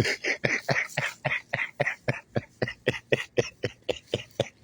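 A man's breathy laughter: a rapid run of short pulses, about five a second, tailing off near the end.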